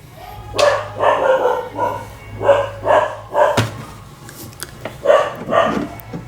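A dog barking repeatedly: a quick run of barks, then a pause and two more barks, over a low steady hum.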